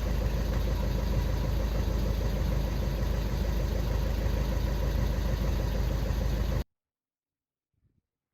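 VW Golf Mk6 engine idling steadily, then the sound cuts off suddenly about six and a half seconds in.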